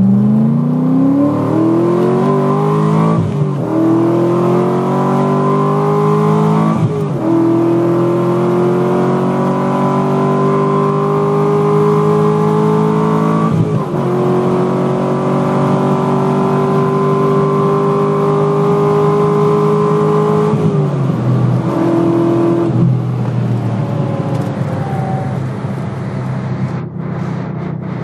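Chevrolet Corvette C6's 6.2-litre LS3 V8 at full throttle, pulling hard up a steep grade through its ZR1 gearbox, heard from inside the cabin. The engine pitch climbs, dips briefly at each of three upshifts, then falls away when the throttle is lifted about twenty seconds in.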